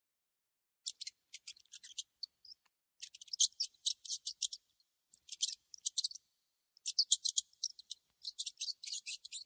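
Mouse squeaking: rapid clusters of short, very high-pitched squeaks separated by brief silences.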